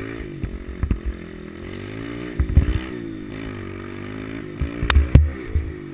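A small four-stroke single-cylinder pit bike engine being ridden, its revs rising and falling over and over. Several sharp knocks and rattles break in, the loudest just before and just after five seconds in.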